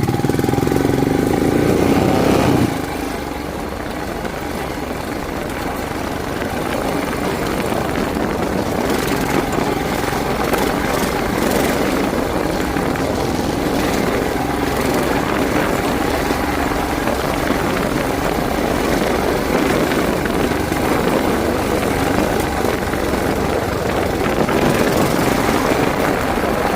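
Motorcycle engine running under way, with road and wind noise on the microphone; a louder, deeper engine note drops away a little under three seconds in, leaving a steady rush.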